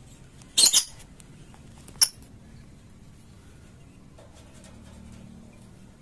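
Lovebird giving two short, shrill chirps about a second and a half apart, the first one doubled.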